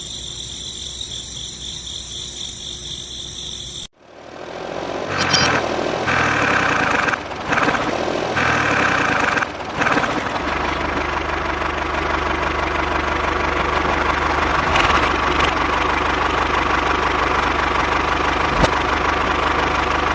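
A small motor running. About four seconds in the sound cuts out abruptly, then it starts again with its pitch rising as it speeds up, and it settles into a steady drone.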